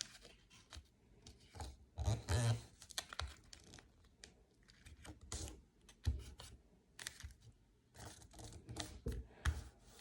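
A sheet of paper being folded and creased by hand: irregular rustles, scrapes and light clicks, loudest about two seconds in.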